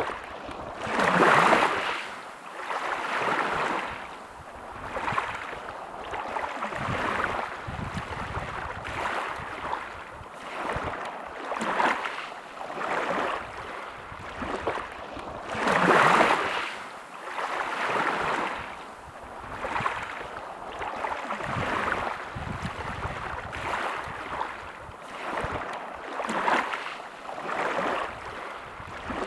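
Small sea waves washing onto a beach in repeated surges every second or two, the biggest about a second in and about halfway through.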